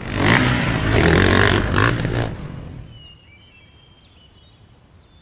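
Vehicle engine revving hard for about two seconds, then dying away. Faint bird chirps follow.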